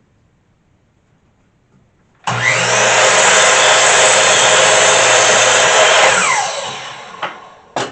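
Miter saw switched on about two seconds in, spinning up and running loud and steady for about four seconds as it crosscuts a board, then winding down with a falling whine. Two sharp knocks come near the end.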